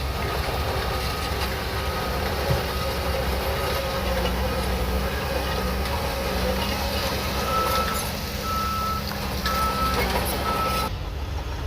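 Shantui DH17C3 bulldozer's diesel engine running under load while its reversing alarm beeps, with short evenly spaced beeps about once a second in the second half. The sound changes abruptly near the end.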